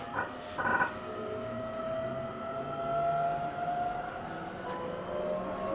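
Cabin running sound of an E127 series 0 electric train: the traction motors' whine slowly rising in pitch as the train gathers speed, over the rumble of wheels on the rails. Two brief sharper sounds come within the first second.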